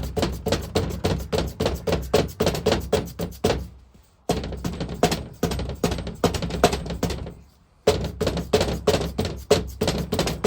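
Rapid hammer blows on a seized metal fitting of a vintage engine's vaporiser, about six a second, each with a short metallic ring. They come in three runs, with brief pauses about four seconds in and again about seven and a half seconds in. The aim is to shock free a part that will not undo.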